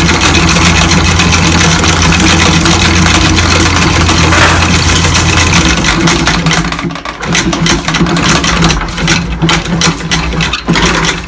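Yacht's inboard engine running steadily under a loud rushing noise. About six seconds in, the deepest part of the engine drone drops away and the rushing turns choppy and uneven.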